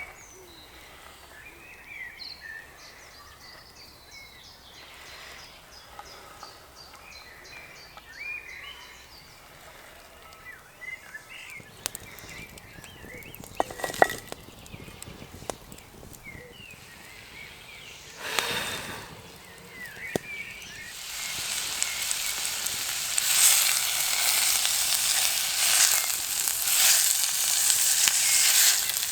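Small birds chirping, a few sharp knocks and clatters midway, then, about three quarters of the way through, a loud steady sizzle of food deep-frying in hot oil that carries on.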